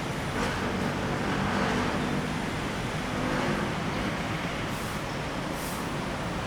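Road traffic: a steady rumble of passing vehicles, with a few short hissing swells.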